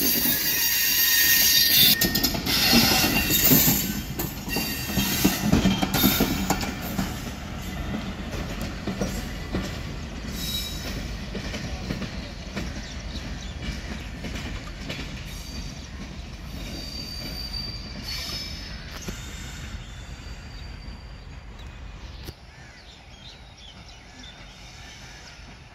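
Passenger train coaches rolling past over the rails, wheels clacking and squealing, the sound fading steadily as the train draws away.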